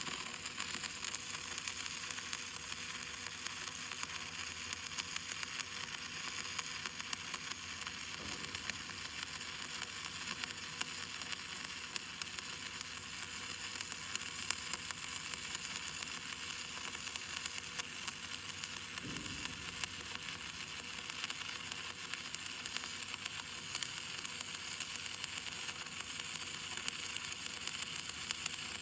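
Arc welding with a 7024 Jetrod stick electrode: the arc gives a steady, even crackling sizzle.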